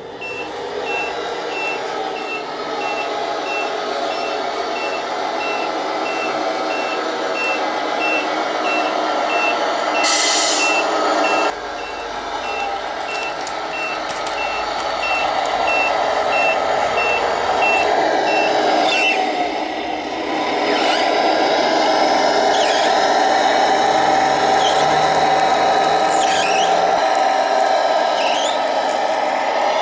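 Electronic sound unit of a radio-controlled Tamiya Scania 770S truck playing a truck engine note with a regular reversing beeper. The beeps stop about two-thirds of the way through, and the engine note runs on a little louder.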